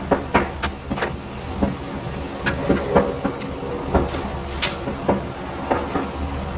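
Irregular clicks and knocks, one to three a second, from hand work on a car's brakes during a brake pad replacement, over a steady low hum.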